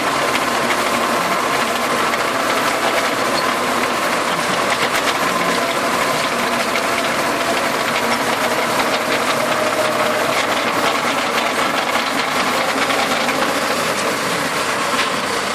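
Tractor engine running steadily while its rotary tiller turns and chops celery plants, a dense, even mechanical clatter.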